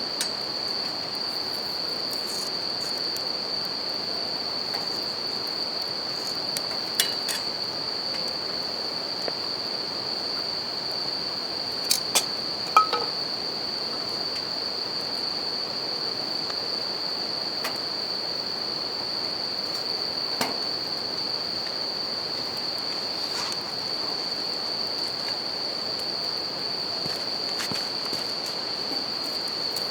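Bell crickets singing in a steady, high-pitched chorus over the even rush of a river, with a campfire crackling and giving a few sharp pops, several close together about twelve seconds in.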